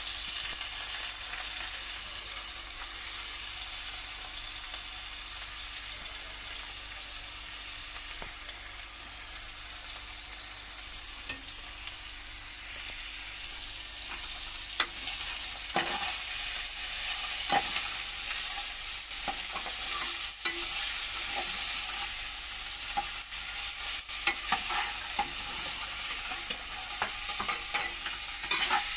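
Chicken pieces and carrot strips sizzling as they fry in a steel pan, stirred with a metal slotted spoon that scrapes and clinks against the pan. The clinks come more often in the second half.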